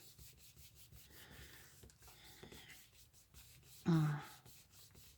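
Paper being rubbed and handled on a journal page, a soft scratchy rustling. A short voiced murmur about four seconds in.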